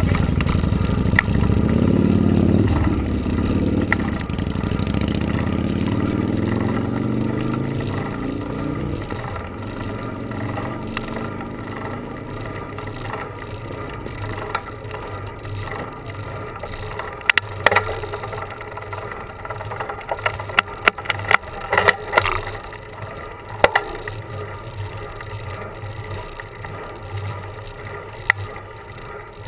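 A motor vehicle passes, its engine note falling in pitch and fading over the first several seconds. After it, a steady hum of riding with scattered clicks and rattles from the bicycle.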